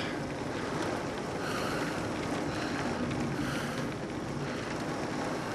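Steady rushing noise of heavy rain and floodwater running in a flooded street.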